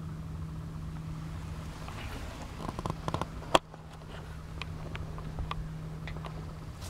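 The 454 big-block V8 of a 1986 GMC 3500 truck idling with a steady hum, with scattered light clicks and one sharp click about halfway through.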